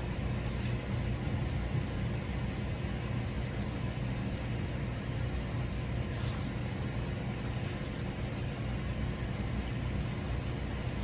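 Steady low outdoor rumble, with faint brief high ticks about half a second in and again about six seconds in.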